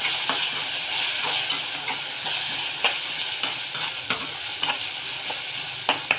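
Chopped onion and ginger-garlic-coriander paste sizzling in hot oil in a kadhai, stirred with a spatula that scrapes and taps against the pan about once or twice a second.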